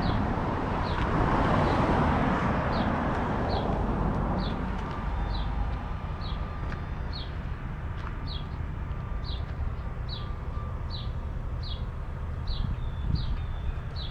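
Outdoor ambience: a bird's short falling chirp repeated steadily, a little more than once a second, over a low steady rumble. A broad rush of noise fills the first few seconds and fades away.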